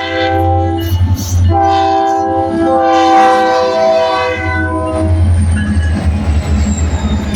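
Diesel locomotive's multi-note air horn sounding a chord. One blast ends about a second in, then a long blast of about four seconds follows, over the steady low rumble of the locomotives' diesel engines. After the horn stops, rail noise continues and a faint high wheel squeal rises near the end.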